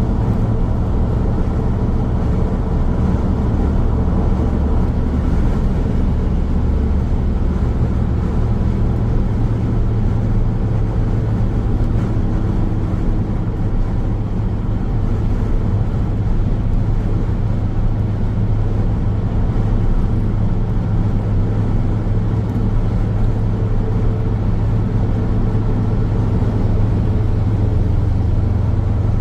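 Car driving along a road: steady low rumble of tyres and engine.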